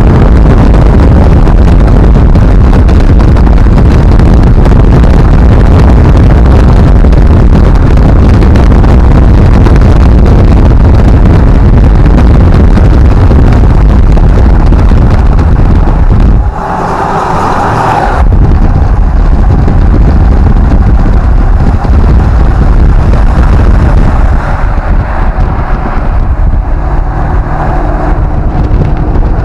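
A motor vehicle running, loud enough to overload the recording, steady apart from a brief change about halfway through.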